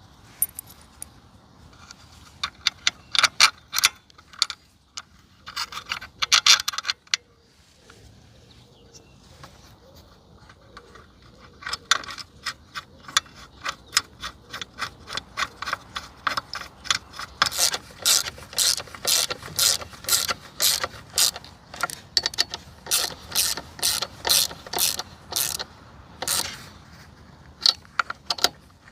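Sharp metallic clicks and clinks of small tools and parts being handled during carburetor work. They come in scattered groups at first, then in a long, fairly even run of about three a second.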